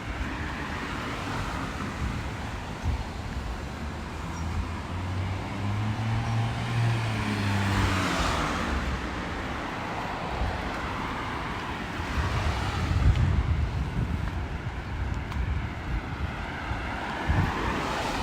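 A car drives past on a wet road. Its engine hum builds and its tyres hiss, peaking about eight seconds in. A second, lower rumble follows about twelve seconds in.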